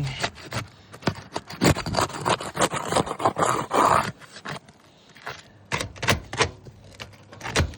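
Asphalt roof shingles being pried loose from their sealant strip: irregular scraping and cracking, with a dense stretch of scraping in the first half and sharper clicks and snaps later on.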